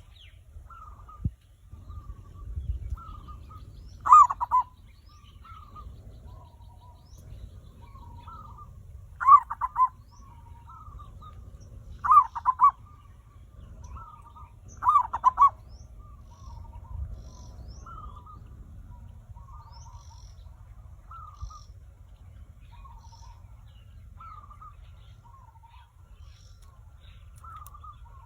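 Zebra doves (perkutut) cooing: four loud trilled coos in the first half, with softer short coos running on throughout.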